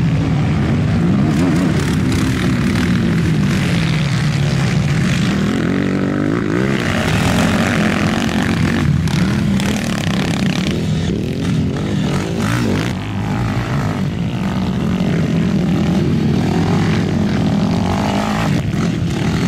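Quad bikes racing, several engines running at once and revving up and down as they accelerate and back off.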